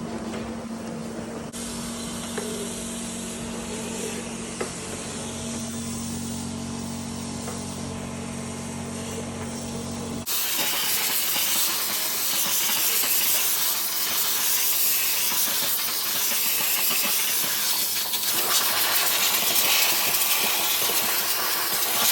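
Steady hiss of a cleaning spray jet on an air conditioner. A low hum runs beneath it at first and stops abruptly about ten seconds in, where the hiss turns louder and brighter.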